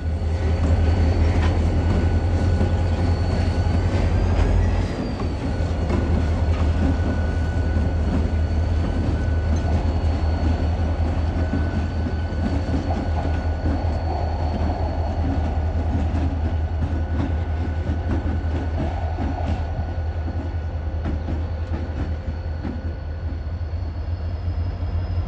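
Freight train running past with a heavy, steady low rumble, loudest in the first five seconds, and a thin steady high-pitched ringing over it.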